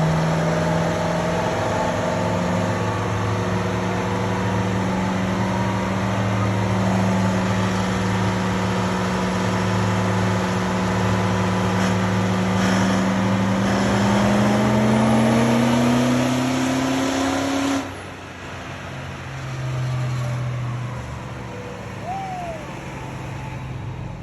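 Diesel truck engine making a pull on a chassis dyno: a loud steady drone for about fourteen seconds, then rising in pitch for a few seconds before cutting off suddenly as the throttle is released, leaving a quieter idle.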